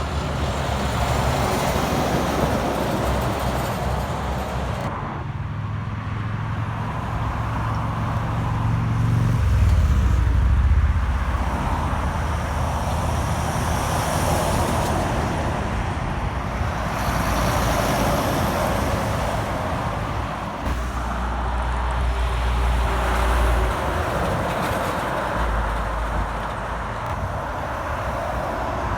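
Heavy trucks and other traffic driving past on a road. Diesel engine notes and tyre noise swell and fade as several vehicles go by, loudest with a deep engine note about ten seconds in.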